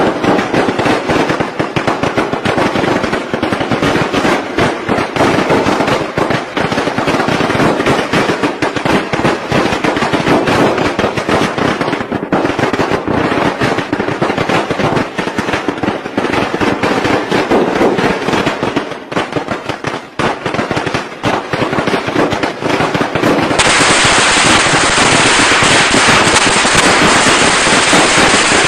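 Strings of firecrackers going off in a rapid, unbroken crackle of many small bangs. About 23 seconds in, a cut to another recording brings a denser, steadier crackle.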